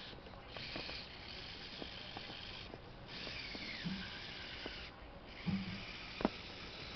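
Small electric motor of a micro RC truck whining at a high pitch in spurts, cutting out briefly a few times and falling in pitch once, with small clicks and a couple of low thumps.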